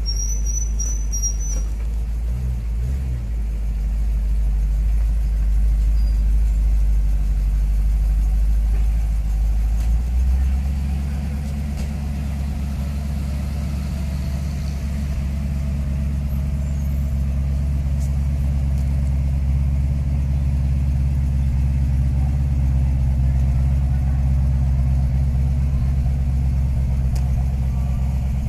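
1970 Plymouth 'Cuda's 440 cubic-inch V8 idling steadily with a low, even exhaust note that grows clearer about ten seconds in.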